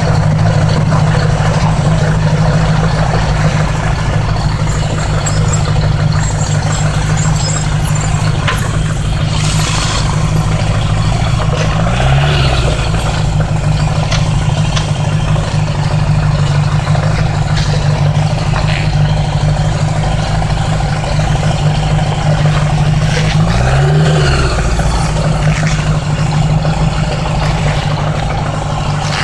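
1980s Honda Gold Wing motorcycle engine running at road speed, heard from the rider's seat with wind rushing past the microphone. The engine note twice dips briefly and picks up again, about a third of the way in and a little after two-thirds in.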